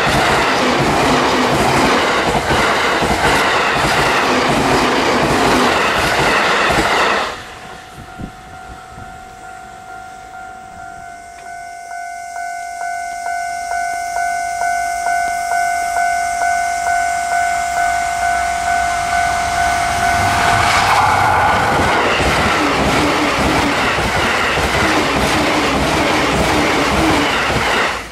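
A JR East E531 series commuter train passes close at speed, its wheels clattering over the rails, until the sound drops away about seven seconds in. Then an E657 series limited express approaches, its sound building in regular swells, and passes at speed with a loud rush that cuts off just before the end. A steady high tone runs underneath.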